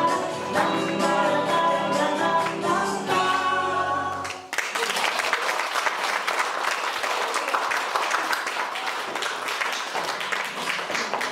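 Group singing with instruments ends sharply about four seconds in, and an audience breaks into applause that thins out near the end.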